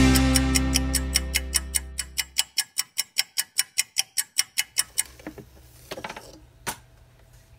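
Rock music fading out under an even, fast ticking like a clock, about four ticks a second, which stops about five seconds in. A few softer clicks and one sharp click follow.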